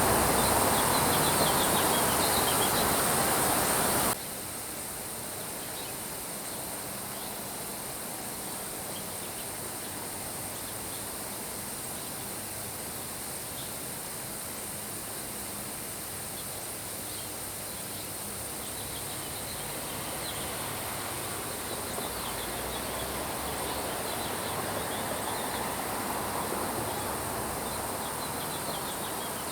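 Steady rain that cuts off abruptly about four seconds in, leaving a quieter outdoor nature ambience with faint high chirping that swells a little toward the end.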